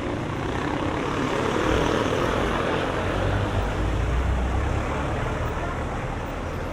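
Engine noise of a passing motor vehicle: a rumble that swells over the first couple of seconds, is loudest around the middle and fades near the end.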